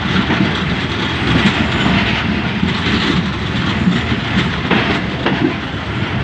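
Passenger train coaches rolling past close by: steady wheel-on-rail rumble with clickety-clack from the bogies, and a few sharper clacks about five seconds in.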